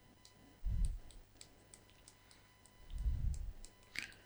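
Soft, irregular light clicks and taps, with two dull low thumps, about a second in and about three seconds in, and a brief squeak near the end.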